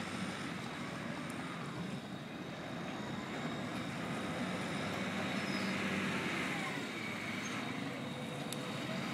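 Steady rumble of vehicle engines and traffic noise on a car ferry, with a faint high, steady whine over it.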